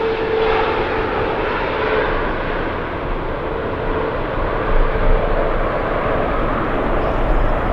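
Jet airliner's engines running as it passes and moves away: a steady whine fades out over the first two seconds, leaving a broad rumble that slowly loses its higher tones.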